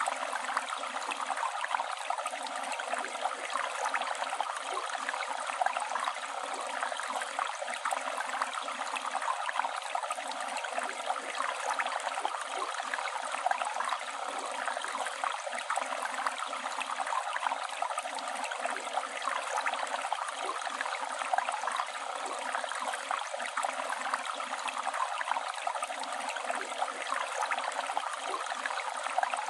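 A flowing river or stream running steadily, a continuous rushing and babbling of water.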